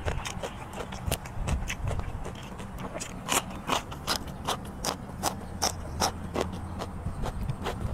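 Close-miked chewing: a steady run of sharp, crunchy mouth clicks, about two or three a second, loudest around the middle, as a raw long bean and squid are chewed.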